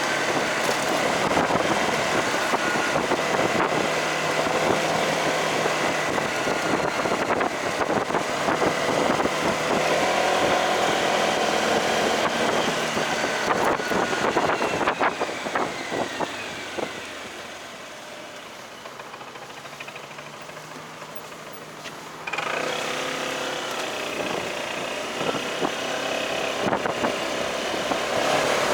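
Motorcycle running on the road, with engine noise and rushing air. About halfway through the engine note falls away and it goes quieter for some five seconds, then the full noise comes back suddenly.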